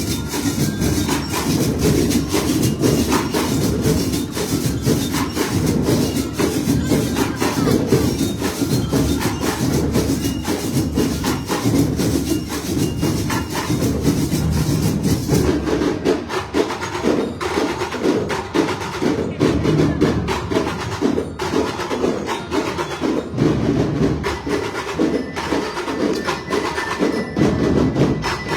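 Parade music driven by dense, fast percussion with a steady beat. About halfway through, the sound thins out and the single strikes stand out more.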